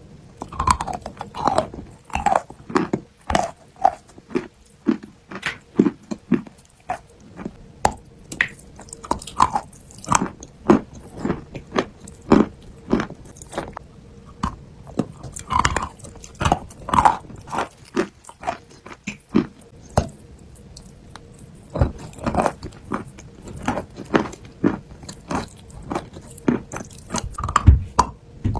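Biting and chewing a block of chalk close to the microphone: irregular crisp crunches, one or two a second, with a short lull about twenty seconds in.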